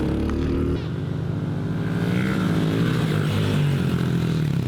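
Four-stroke dirt bike engine running under throttle during riding, its pitch dropping about a second in, then holding and wavering as the rider works the throttle.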